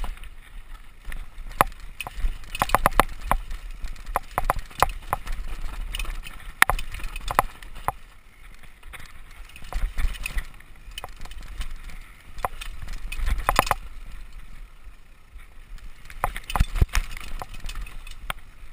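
A mountain bike clattering and rattling as it is ridden downhill over rough, rocky forest trail, with irregular sharp knocks from the bike and tyres hitting rocks and roots. A steady low rumble runs underneath.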